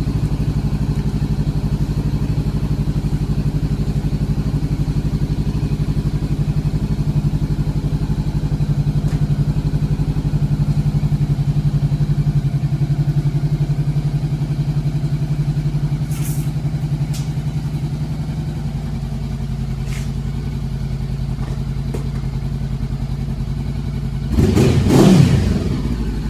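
Honda CBR500R's parallel-twin engine idling steadily, then revved once briefly near the end, the pitch rising and falling back to idle.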